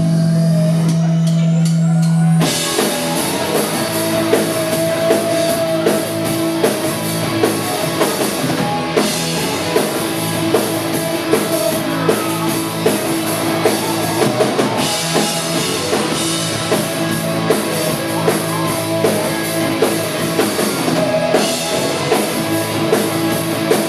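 Rock band playing live: a held low drone for the first couple of seconds, then the full band crashes in with drum kit and electric guitars keeping a steady beat.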